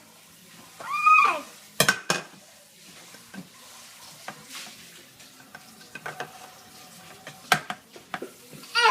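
Dishes and cutlery clinking and knocking as a dishwasher is loaded, in scattered sharp clicks. A short high-pitched vocal sound comes about a second in and again at the end.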